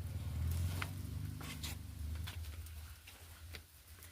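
A few light knocks and clicks of things being handled, over a steady low rumble of handling noise on the microphone.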